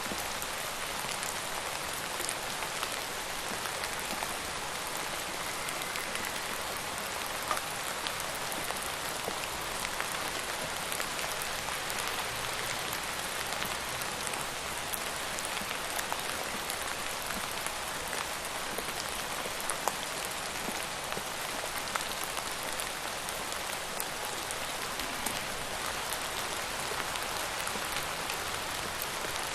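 Steady rain falling on a surface: an even hiss with scattered individual drop ticks throughout.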